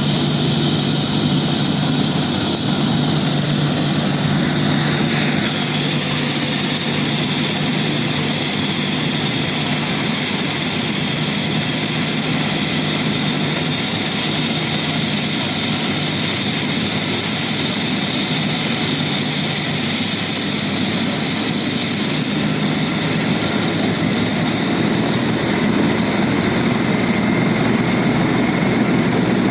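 Air ambulance helicopter running loud and steady: turbine whine over the rotor noise, with a high whine edging slightly upward near the end.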